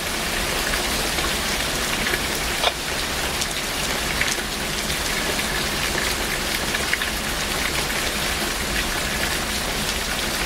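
Heavy rain falling steadily and pattering on surfaces, with scattered sharp drips and splats standing out over the dense hiss.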